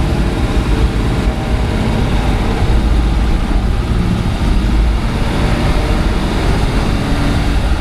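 1936 Ford pickup driving along, heard from inside the cab: its engine running with road noise, a steady low rumble.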